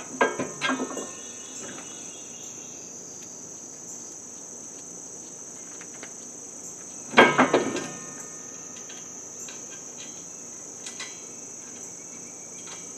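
Metal knocks and clinks from a heavy steel bar being bolted onto a compact tractor: a few light clanks near the start and a louder metallic clatter about seven seconds in. A steady, high-pitched insect chorus carries on throughout.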